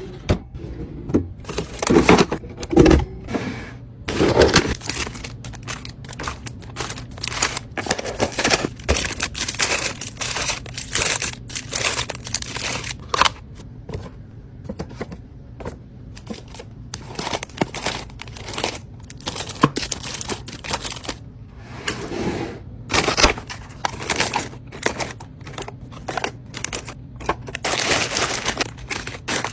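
Food packaging and containers being handled while a fridge is stocked: a dense run of taps, clicks and knocks, with crinkling of plastic wrapping.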